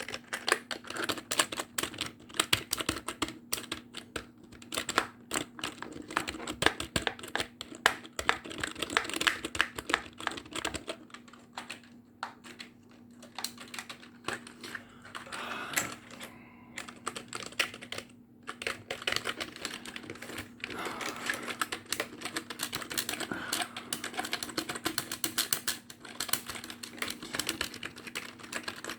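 Computer keyboard being typed on rapidly, a dense stream of key clicks with a few brief pauses midway. A low steady hum runs underneath.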